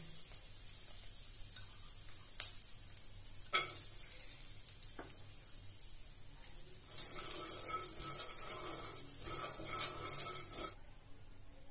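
Peanuts frying in a little hot ghee with cumin in a metal kadhai: a steady sizzle with a few light knocks. From about seven seconds in a spatula stirs them, and the nuts rattle and scrape against the pan over a louder sizzle, which dies down near the end.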